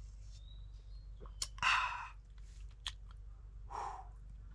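A man drinking a shot of whisky: a couple of light clicks, and after each a short breathy exhale.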